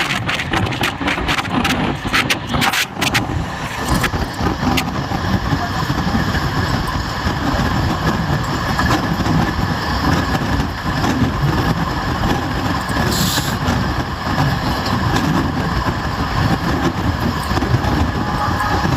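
Indian Railways train in motion: a steady rumble and rattle of the wheels running on the track, with a quick run of sharp clicks in the first few seconds.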